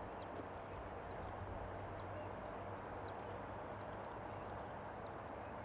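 A small bird repeating a short, high chirp about once a second, faint, over a steady low hum and outdoor background rumble.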